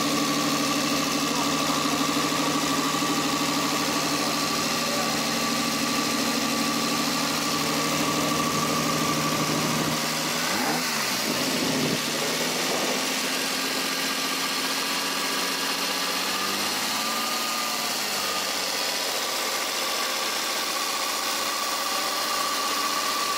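1968 Ferrari 330 GTC's V12 engine idling steadily; about halfway the engine note dips briefly and comes back, and it wavers slightly again a few seconds later.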